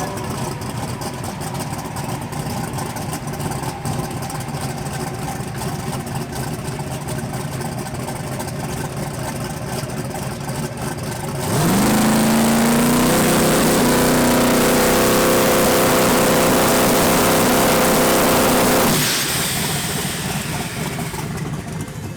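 A car engine runs at a steady low rumble. About halfway through it revs up quickly, holds loud at high revs for about seven seconds, then cuts back sharply.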